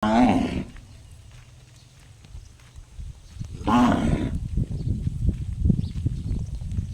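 A cow giving two short, ringing calls that sound just like a gong: one at the very start and one about four seconds in. Low, irregular thumping follows the second call.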